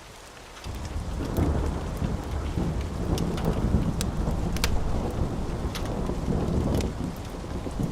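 A wood fire crackling, with sharp pops scattered through it. A loud low rumble comes in suddenly about a second in and carries on underneath.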